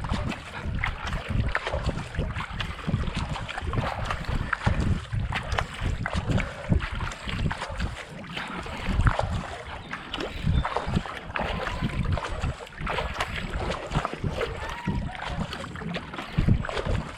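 Kayak paddle strokes splashing and pulling through flat canal water at a steady pace of about 70 to 80 strokes a minute, with wind buffeting the microphone.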